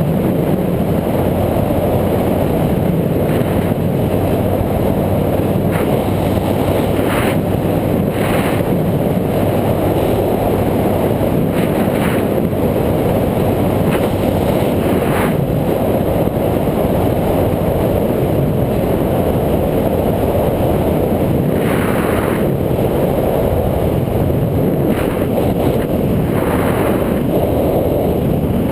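Steady rushing wind on the microphone of a moving bike ride, with a few brief knocks or rattles scattered through.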